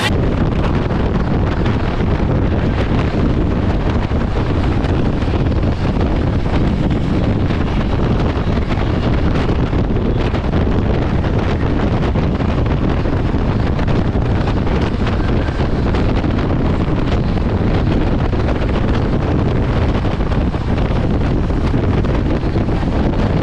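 Steady wind rushing over the microphone, over the running noise of a moving passenger train.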